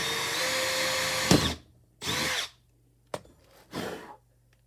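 Power drill boring a pilot hole. The motor runs at a steady whine and stops with a click about a second and a half in. Two short trigger bursts follow, the motor spinning up and back down each time.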